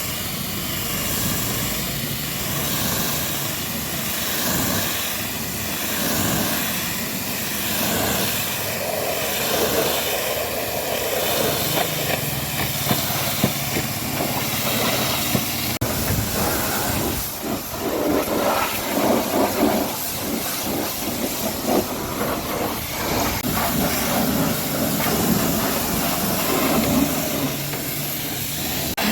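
High-pressure water jet from a pressure washer spraying onto a truck, a continuous hiss that swells and fades about once a second as the nozzle sweeps back and forth, turning more uneven after about 16 seconds.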